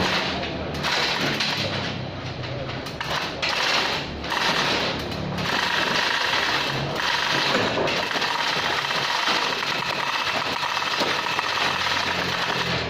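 Power tool running in several short bursts over the first five seconds, then steadily for most of the rest.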